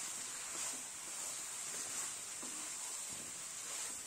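Vegetables sizzling as they sauté in oil with sambar powder in a metal kadai, stirred with a wooden spatula that scrapes the pan a few times.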